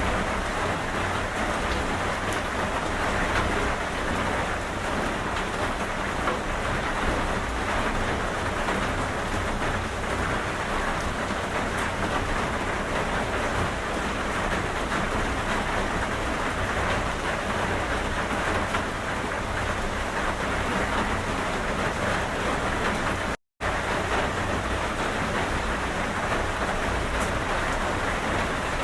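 Steady, dense rain falling, an even hiss with a low rumble underneath. A split-second dropout to total silence comes about five seconds before the end.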